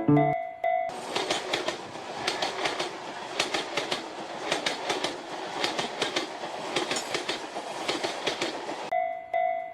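Train passing, its wheels clacking over the rail joints in uneven clusters of clicks over a steady rushing noise. It starts abruptly about a second in and cuts off abruptly near the end.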